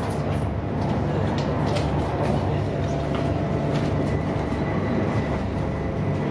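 Cabin noise of the Al Boraq high-speed train running at speed: a steady rumble and hum with a few faint ticks.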